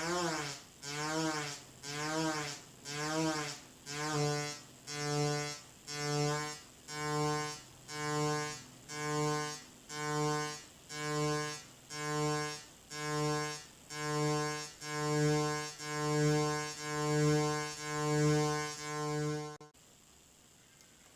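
Brunswick synthesizer oscillator under frequency modulation, pulsing about once a second. At first each pulse sweeps up and back down in pitch; the sweeps narrow until the pulses hold a steady pitch and grow louder. The sound cuts off suddenly near the end.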